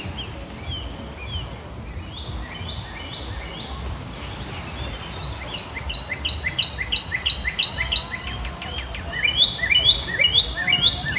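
A bird singing in three bouts of quick repeated high notes, about three to four a second. The middle bout is the loudest. A steady low rumble runs underneath.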